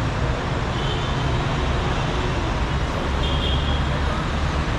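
Dense city street traffic: steady engine rumble and road noise from passing cars and buses.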